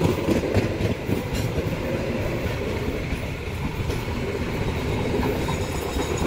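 Indonesian passenger train coaches rolling past close by, a steady rumble of steel wheels on the rails.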